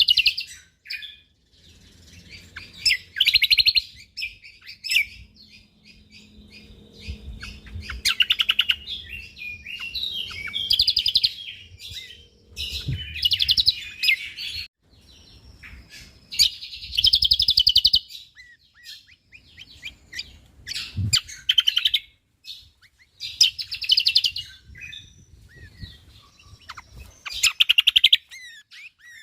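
Cucak kombok (kecial kombok) songbird singing in repeated bursts of rapid, high chattering phrases, each a second or two long, with short pauses between them.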